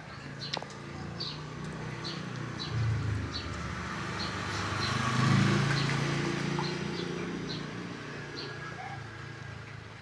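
A motor vehicle passing: a low engine rumble that swells to a peak about five seconds in and then fades. A small bird chirps over and over on top of it.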